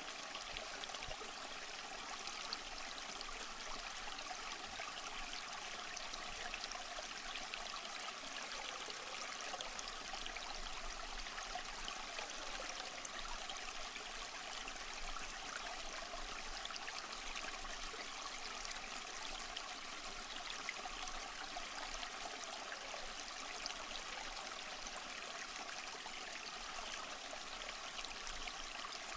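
Small stream flowing over rocks: a steady, even babble and trickle of water.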